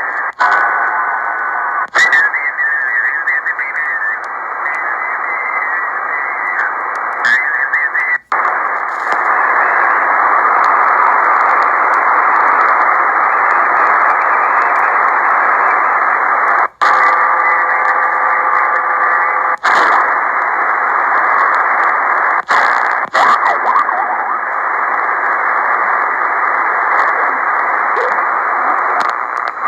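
Amateur HF transceiver's receiver on the 20-metre band in upper sideband: a steady hiss of band noise and static held within the narrow voice passband, with a faint tone now and then. Several brief clicks and a few short dropouts break it.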